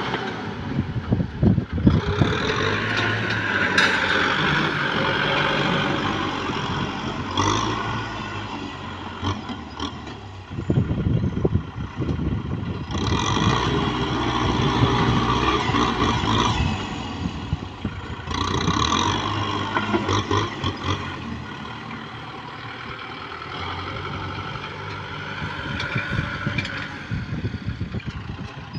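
Kubota M6040 tractor's diesel engine running, its loudness swelling and easing every few seconds, with scattered clanks and knocks.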